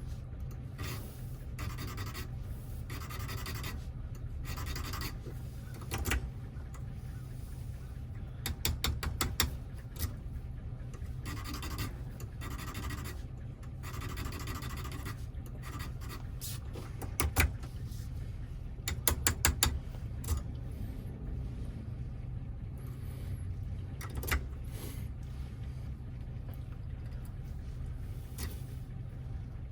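Small metal lock parts being worked by hand: short stretches of scraping and rasping, with clusters of quick sharp metallic clicks, over a steady low hum.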